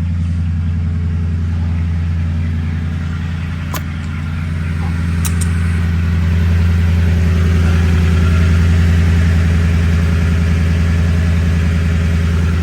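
Toyota Sequoia's engine idling steadily, heard through an aftermarket Magnaflow dual-in, single-out muffler with the resonator removed. The low exhaust drone swells slightly about six seconds in.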